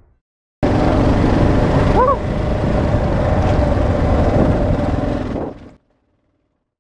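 Kawasaki KLR650 single-cylinder motorcycle engine running as the bike rides along a dirt trail. It cuts in abruptly about half a second in and stops suddenly near the end, with a brief high chirp about two seconds in.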